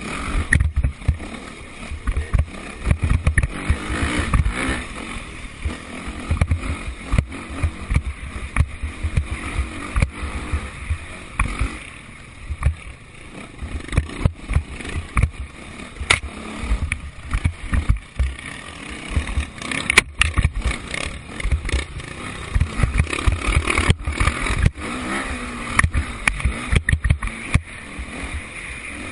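Motocross bike engines revving, their pitch rising and falling a few times, partly covered by a heavy, uneven low rumble on the microphone.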